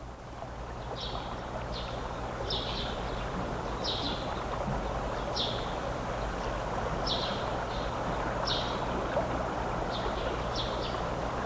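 A small bird chirping repeatedly, short high chirps about once a second, over a steady background hiss and low hum.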